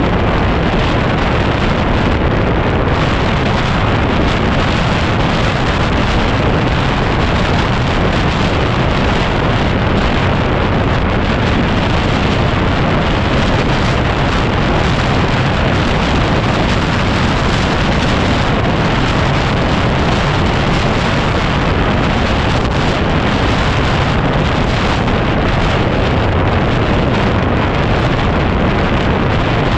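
Heavy, steady wind noise buffeting the microphone while a Yamaha WR250R motorcycle is ridden, its engine running underneath.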